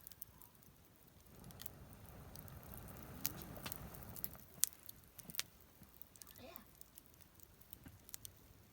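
Square-cut lumber burning in a campfire fire pit, crackling with sharp pops scattered throughout.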